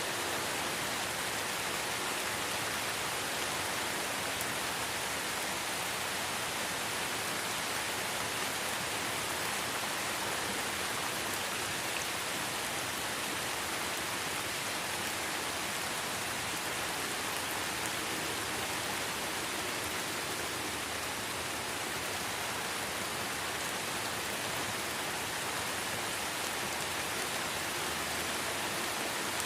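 Light rain falling steadily in a forest, an even hiss of many drops pattering on leaves and ground, with no breaks or single standout sounds.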